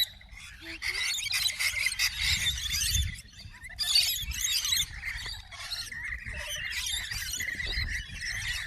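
A group of small birds chirping and squealing together in a dense, constant chatter.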